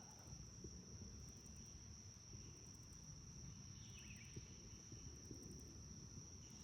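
Faint, steady, high-pitched drone of insects over a low background rumble; otherwise near silence.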